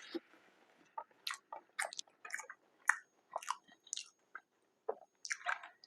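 A person chewing food close to the microphone: irregular short mouth clicks and smacks.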